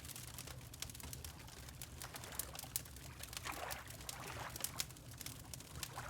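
Wood fire crackling with many small sharp pops, over water lapping in slow, gentle swells and a low steady rumble.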